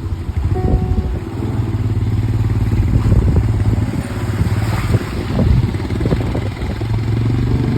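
Motorcycle engine running steadily on the move, with rattling and clattering from the ride.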